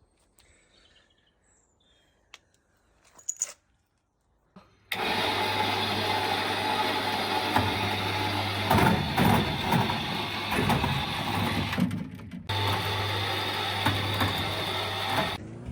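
A few faint clicks, then a motor-driven machine starts about five seconds in and runs steadily with a low hum and a hiss, cutting out briefly about seven seconds later before running on and stopping near the end.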